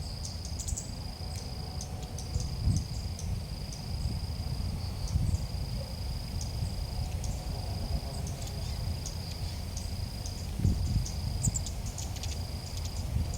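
An insect, likely a cricket, trilling steadily at a high pitch in long runs broken by brief gaps, with short high chirps scattered over it and a low rumble of wind underneath.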